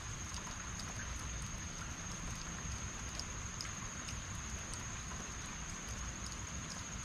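Heavy rain falling steadily, a continuous hiss with scattered ticks of individual drops, over a low rumble. A steady high-pitched tone runs underneath the whole time.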